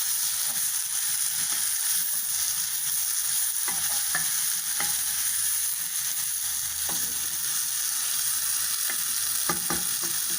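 Chopped deep-fried chicken with onions, tomatoes and capsicum sizzling steadily in hot oil in a pan as it is stirred, with a few short clicks of the stirring utensil against the pan in the second half.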